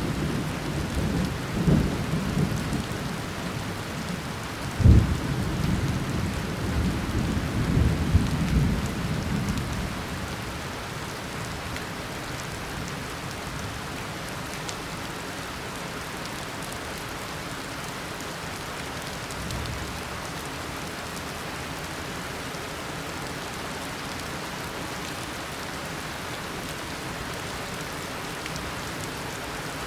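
Tropical rainstorm: steady heavy rain with rolling thunder through the first ten seconds, including a loud clap about five seconds in. The thunder then dies away, leaving even, steady rain with one faint distant rumble midway.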